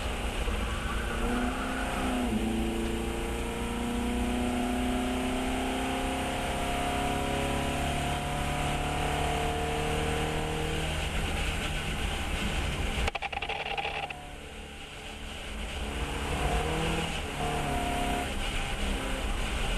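Fiat 132 race car's engine pulling at full throttle on track, its pitch climbing steadily for about nine seconds. The throttle shuts off suddenly about two-thirds of the way through and the engine drops quieter for a moment. It then picks up again in short rising pulls near the end.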